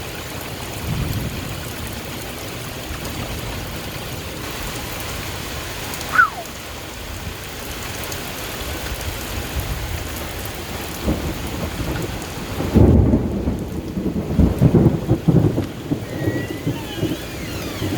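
Heavy thunderstorm rain falling steadily. From about two-thirds of the way in, thunder rumbles in repeated waves.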